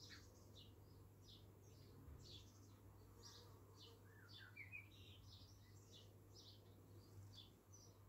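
Faint birdsong: short high chirps repeated about twice a second, with a brief run of rising notes about halfway through, over a steady low hum.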